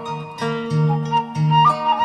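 Sundanese kecapi suling music: a bamboo suling flute plays a wavering melody over plucked kecapi zither strings and sustained low notes.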